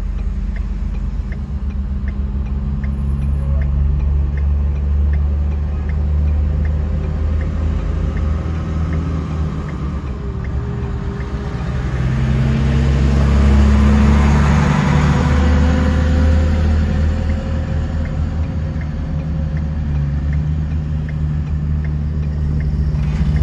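Heavy truck engine running steadily at low speed, a deep continuous drone that swells louder for a few seconds around the middle. A faint regular ticking about twice a second sounds through the first half.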